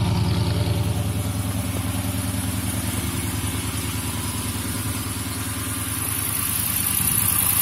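2015 Dodge Challenger R/T's 5.7-litre Hemi V8 idling cold through Kooks long-tube headers, a cat delete and a Corsa Xtreme exhaust: a steady, deep pulsing exhaust note that eases slightly in the middle and builds again near the end.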